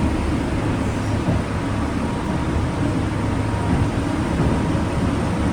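Mount Washington Cog Railway train running, a steady low rumble heard from inside the passenger coach.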